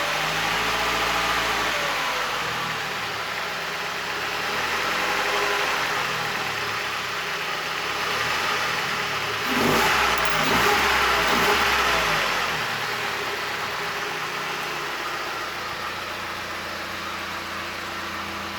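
ZMZ-406 inline-four petrol engine running, its revs rising and falling, with a louder burst of revving about halfway through before it settles to an even idle near the end. It runs smoothly, the sign of a well-tuned engine.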